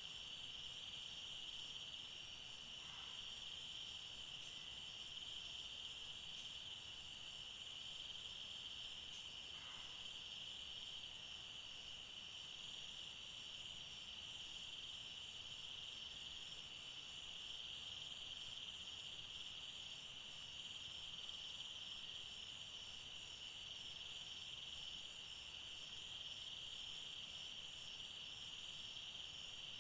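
Faint, steady chorus of forest insects: one continuous high shrill with quicker pulsing notes above it.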